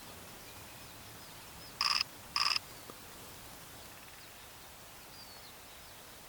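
Two loud, harsh calls in quick succession about two seconds in, each short and about half a second apart, from a bird, with faint thin bird chirps in the background.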